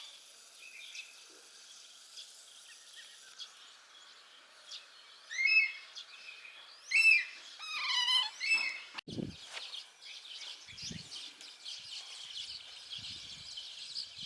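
Bird calls: three short bursts of chirping notes in the middle stretch, over a faint steady background hum of insects. A dull thump sounds about nine seconds in.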